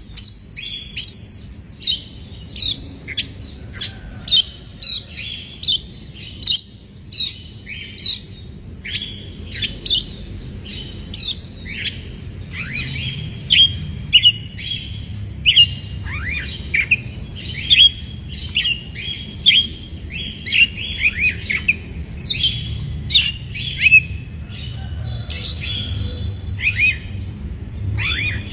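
Oriental magpie-robin (kacer) calling in a fast series of short, sharp chirps and whistles, about two a second, some sweeping down in pitch. A steady low rumble lies underneath.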